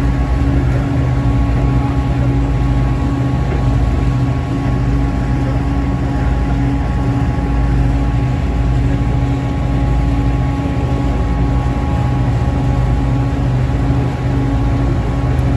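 A sightseeing river boat's engine running steadily, heard from on board as a constant low drone with a steady hum, under the rush of water along the hull.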